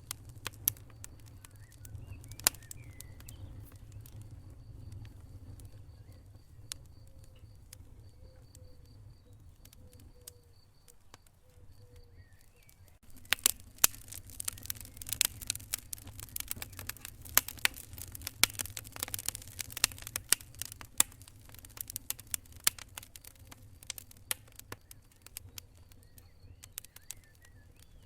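Wood fire crackling in a fireplace: sparse sharp pops in the first half, then a dense run of crackles and snaps from about halfway through, over a low steady rumble.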